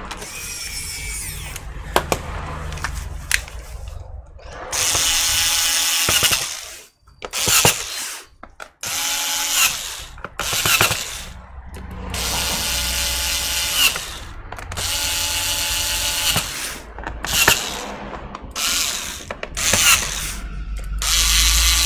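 Electric screwdriver running in short whining bursts, about eight of them, each half a second to two seconds long with pauses between, as it drives the laptop's bottom-cover screws back in.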